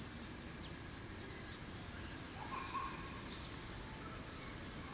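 Faint bird calls over a steady outdoor background hum, with one slightly louder call about two and a half seconds in.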